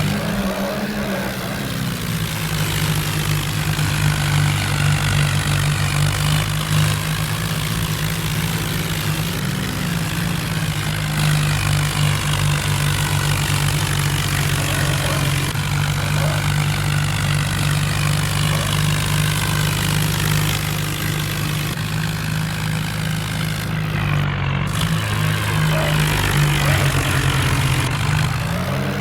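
Tractor diesel engine running steadily under load. It makes a constant low drone whose pitch wavers briefly a few times, with a broad hiss over it.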